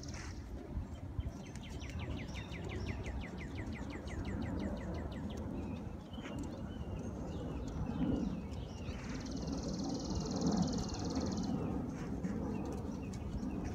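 Birds calling: a quick run of short, repeated falling chirps early on, then a few seconds later a high, fast buzzing trill. Both sit over a steady low rumble.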